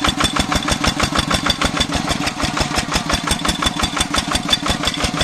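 Single-cylinder diesel engine of a công nông farm truck chugging steadily, about nine beats a second.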